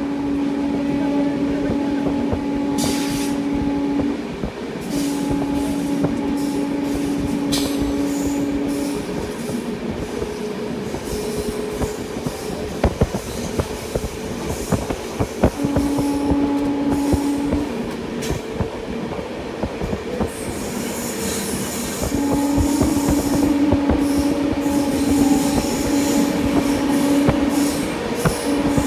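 Express train running on the track: wheels clattering over rail joints under a steady rumble, with a steady mid-pitched tone that sounds in stretches of a few seconds and breaks off between them.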